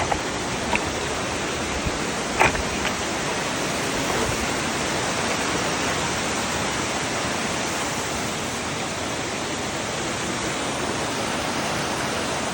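Steady rushing noise of fast-flowing water, even throughout, with a few brief clicks in the first three seconds.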